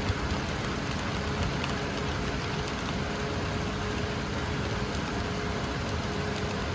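Steady heavy rain, an even hiss with no let-up, over a faint steady hum.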